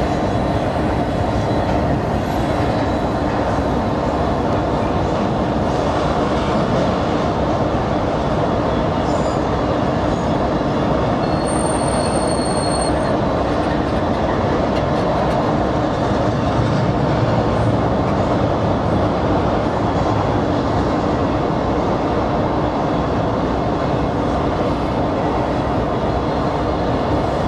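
Double-stack intermodal freight train rolling past: a steady, continuous noise of wheels running on rail. A brief high-pitched wheel squeal comes a little before halfway.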